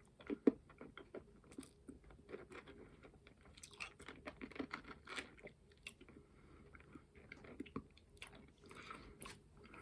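A person chewing and crunching a Lemonheads hard candy in their mouth: faint, irregular crunches and clicks, the sharpest about half a second in.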